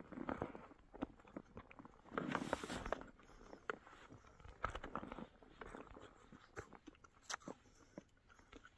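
Close-up crunching and chewing of a mouthful of snow being eaten to quench thirst, with irregular faint crunches.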